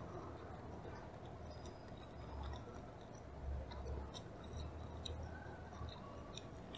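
Close-up chewing of tuna sushi: soft, wet mouth sounds with many small clicks.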